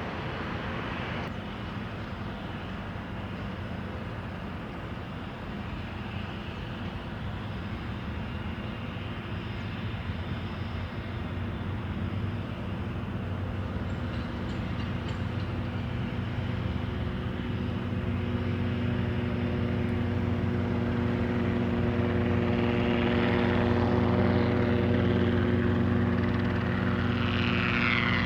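An airplane's engines, growing steadily louder as it approaches, with a steady hum of several tones and a high whine that rises and falls near the end.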